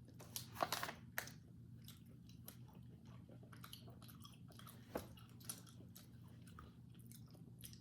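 Quiet close-up chewing of small dried plums, with scattered short wet clicks and mouth sounds over a faint steady hum.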